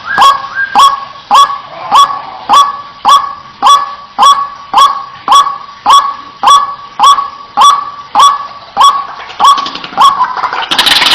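White-breasted waterhen (ruak-ruak) giving its repeated harsh 'wak' call, loud and evenly paced at a little under two calls a second, as a bird-lure recording. Just before the end it breaks off into a sudden loud, dense jumble of sound.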